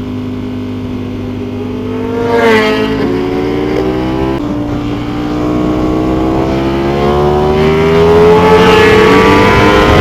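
Sport motorcycle engine accelerating hard at full throttle: revs jump about two seconds in and drop back twice with quick gear changes, then climb in one long, steady pull, rising in pitch and getting louder.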